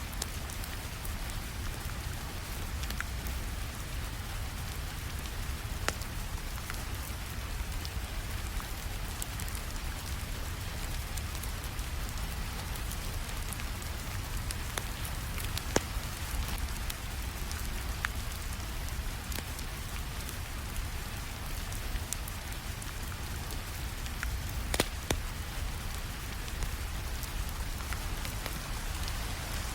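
Steady rainfall, with a fireplace crackling underneath and a few sharp pops scattered through it.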